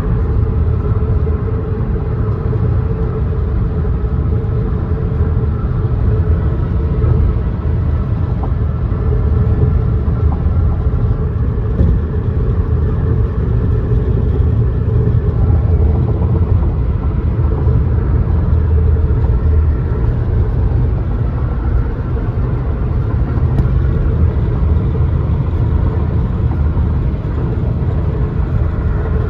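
Chevrolet Bolt EV cruising above 70 mph, heard from inside the cabin: steady deep road and wind rumble with a faint rattle from the dashboard or A-pillar area whose source the owner has not found; a dealer's part replacement inside the A-pillar did not cure it.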